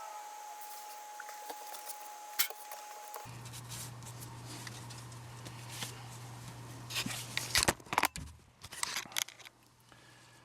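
Hands working foil tape over sheet-metal seams: scattered crackles and sharp clicks, loudest and densest around seven to nine seconds in. A steady low hum comes in abruptly about three seconds in.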